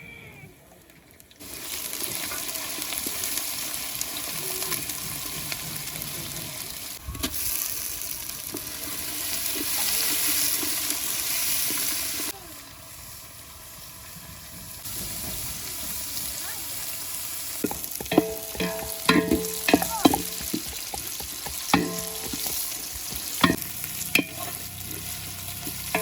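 Food frying and sizzling in hot oil in a cooking pot, the hiss starting about a second and a half in and dipping for a few seconds midway. In the second half a spoon clinks and scrapes against the pot while the food is stirred.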